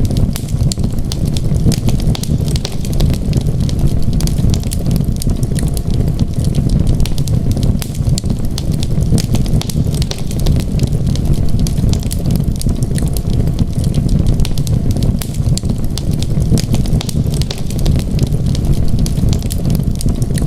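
Wood fire crackling in a fireplace, with frequent small irregular pops over a steady low rumble.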